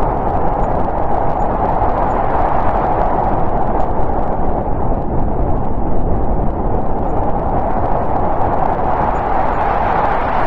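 Snowstorm wind blowing steadily, a continuous rushing noise with a low rumble beneath.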